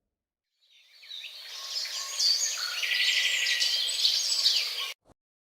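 Birds chirping, many overlapping calls, fading in about a second in and cutting off abruptly near the end.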